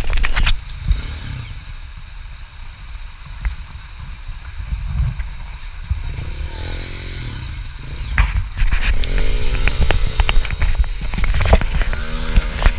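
MXF dirt bike engine running and revving, its pitch rising and falling, with knocks and rumble on the microphone. It gets louder about two-thirds of the way through.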